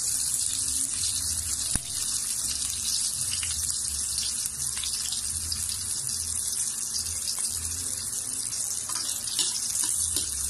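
Onion and ginger sizzling in hot oil in a wok: a steady crackling hiss, with one sharp click about two seconds in.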